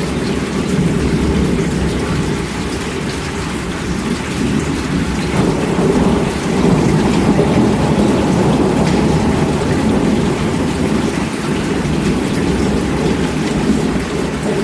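Steady heavy rain with a low rumble of thunder underneath, swelling a little in the middle.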